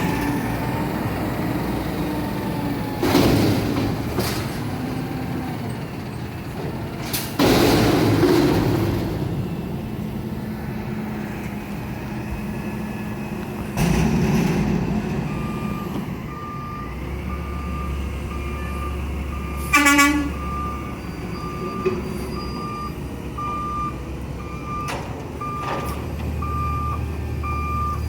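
Garbage truck engine running, with bursts of air hiss a few times in the first half. From about halfway on its reversing alarm beeps about once a second, and a short horn blast sounds about two-thirds of the way in.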